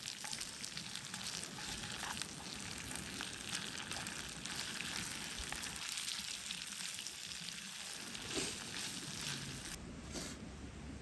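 Food frying in a pan over an open fire, a steady crackling sizzle that starts abruptly and dies away shortly before the end.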